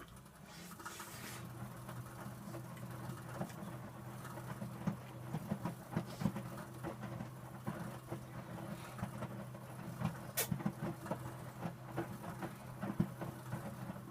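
Electrolux W455H commercial washing machine turning its drum: a steady motor hum that sets in at once, with irregular sloshing and knocking of wet towels and water tumbling inside. A sharp click about ten seconds in.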